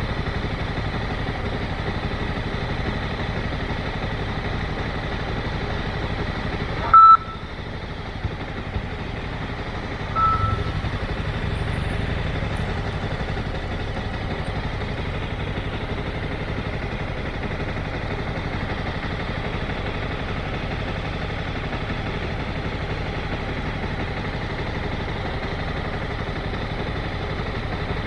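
Motorcycle engine running with steady road and wind noise. A brief loud beep comes about seven seconds in, and a shorter beep of the same pitch near ten seconds, as the engine swells.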